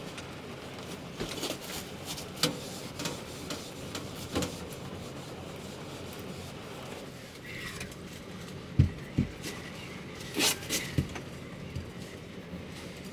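Scattered clicks and knocks of things being handled, with two low thumps about nine seconds in and a rustling scrape about a second later, over a steady background hiss.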